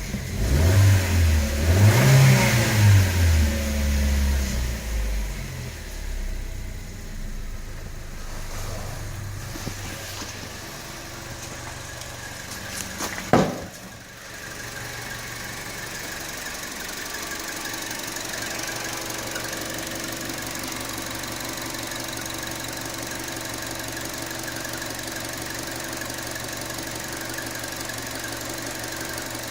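2014 Chevy Sonic's 1.4L four-cylinder engine revved up and down a few times over the first seconds, then running steadily at idle with a constant high-pitched whine. There is one sharp knock about 13 seconds in.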